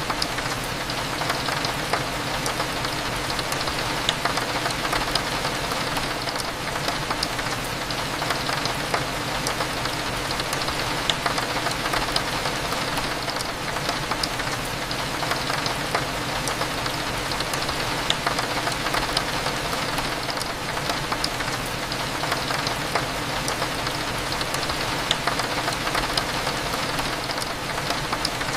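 Steady rain pattering on a window glass, with many small drop ticks, over a low, even background hum.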